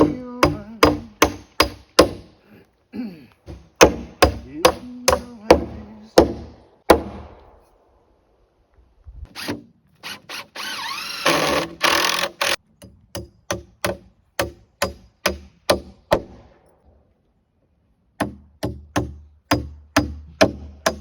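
Hammer driving nails into heavy green, rough-sawn 2x8 lumber: runs of quick blows, about three a second, broken by short pauses. A brief rasping noise comes near the middle.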